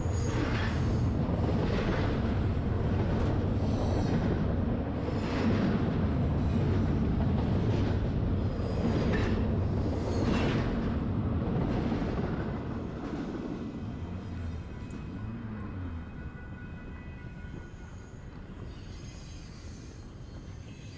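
Long freight train rolling along the track with a steady low rumble, dying away after about twelve seconds.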